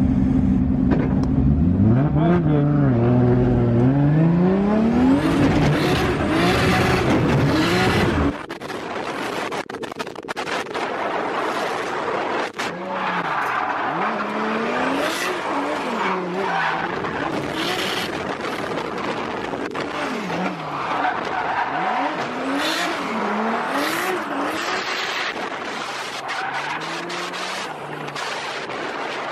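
Turbocharged RB30 inline-six engine revving hard, its pitch rising and falling again and again as the car drifts, with tyres squealing. About eight seconds in the sound abruptly loses its deep low end and drops in level, the revving and tyre noise going on.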